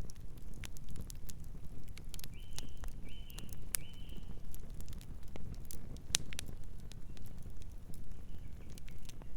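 Campfire burning and crackling, with sharp pops all through over a low rumble of flames. A bird chirps three short times a little after two seconds in, and once more faintly near the end.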